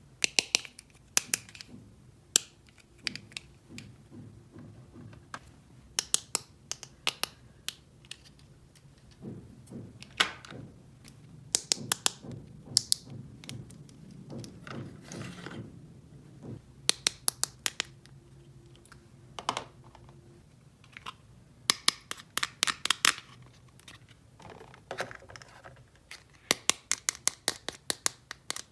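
Small toy pieces being handled and set down, making quick clusters of sharp clicks and taps, with a softer rustling scrape about halfway through.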